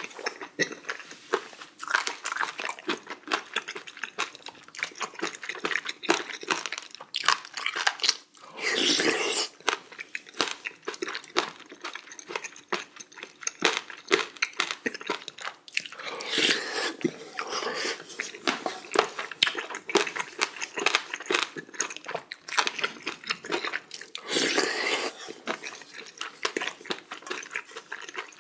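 Close-up eating sounds: a person chewing and smacking mouthfuls of spicy beef small-intestine hot pot with rice, in many small wet clicks, with a few louder, longer noisy stretches.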